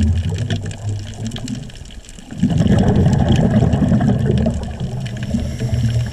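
Scuba diver exhaling through a regulator: a loud rush of bubbles starts about two seconds in and lasts a few seconds, after a steadier low rumble.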